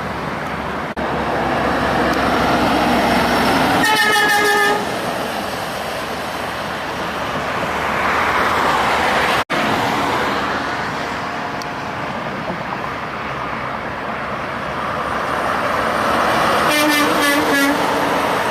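Heavy truck traffic going past, with a short horn honk about four seconds in and a second, stuttering honk near the end.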